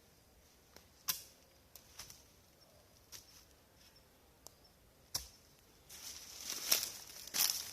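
Dry twigs and leaf litter snapping and crackling. There are a few single sharp snaps at first, and then from about six seconds a steady run of rustling and crackling.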